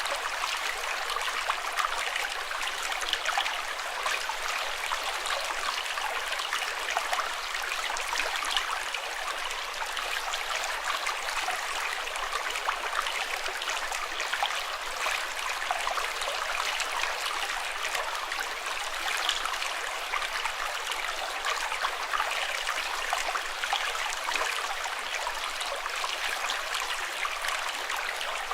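Steady flowing water with a dense, fine splashing and trickling that never pauses.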